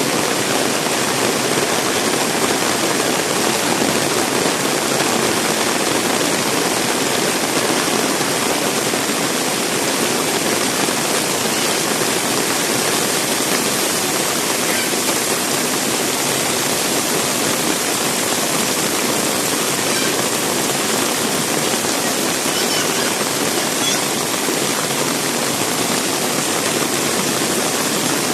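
Heavy rain pouring down, a steady dense hiss of water.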